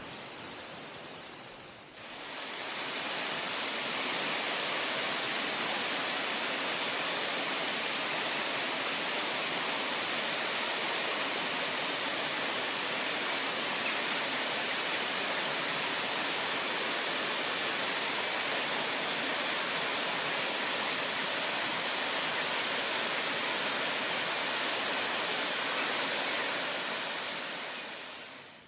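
Waterfall rushing: a steady, even rush of falling water. It comes in quieter at first, jumps louder after a cut about two seconds in, and fades out near the end.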